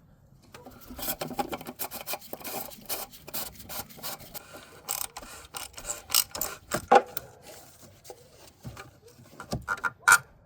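Hands working the new oil filter into its plastic housing: rubbing and scraping for the first few seconds, then several sharp clicks, the loudest about seven seconds in.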